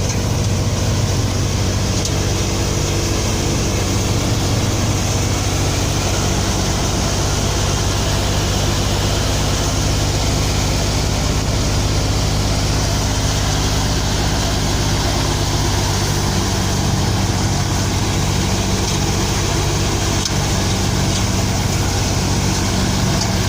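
Tractor engine running steadily at an even, unchanging speed, with a fast regular firing beat.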